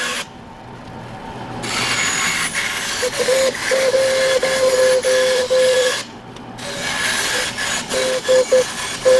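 A saw cutting a round blank out of a wood board, in two runs of cutting with a short pause about six seconds in, and a steady pitched whine from the blade that comes and goes as it cuts.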